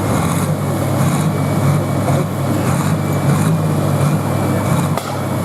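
Diesel pulling tractor's engine running flat out under heavy load, a steady, loud drone as it drags the weighted sled down the track.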